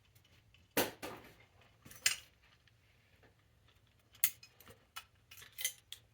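Hand tools clinking and knocking on metal: four sharp clanks a second or two apart, with lighter clicks and rattles between them.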